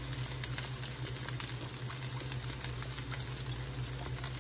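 Rice and oyster sauce sizzling gently in a hot steel wok over a gas flame: a steady crackle with scattered small pops over a steady low hum.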